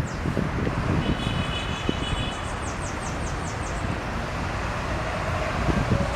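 Small birds giving a quick series of high, falling chirps, with a brief piping note about a second in, over a steady rumble of wind and traffic.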